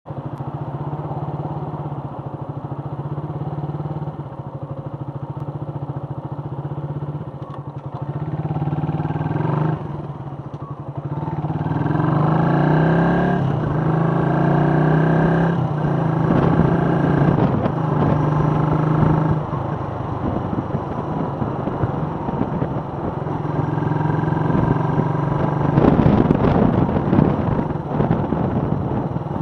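Suzuki Volty's 250 cc single-cylinder engine running steadily at low revs. About eight seconds in it pulls away, with the revs rising and dropping through gear changes. A louder rush of noise comes in near the end.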